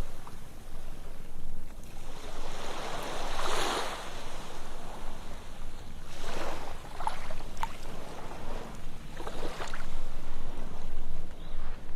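Ocean waves breaking and washing up a sandy beach, in swells of hiss every few seconds.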